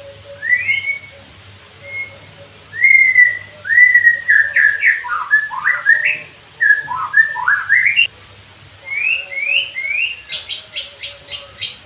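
White-rumped shama (murai batu) singing: a run of varied whistled phrases, gliding up and down, then about ten seconds in a fast series of sharp, repeated notes.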